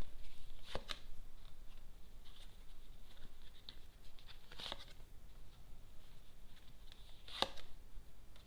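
Lenormand playing cards being handled on a table: soft rustling with three sharp card snaps, about a second in, near the middle and near the end.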